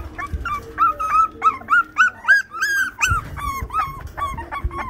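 A litter of Boston Terrier puppies whining and crying, many short, high-pitched cries overlapping, several a second.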